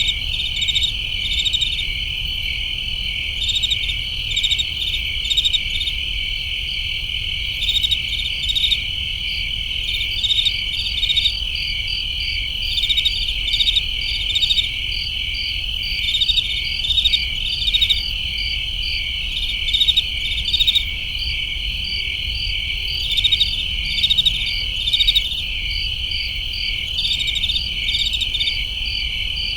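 A night chorus of crickets: a steady, unbroken high trill, with chirps in short pulsed bursts laid over it every second or so.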